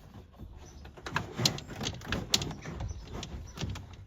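Handling noise from cable being pulled and fed through the van's panels: an irregular run of knocks, clicks and scrapes, with two sharper knocks about one and a half and two and a quarter seconds in.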